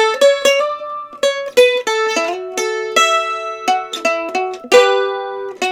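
Seagull S8 mandolin being played with a pick: a melody of bright, ringing single notes and double stops, beginning suddenly at the start.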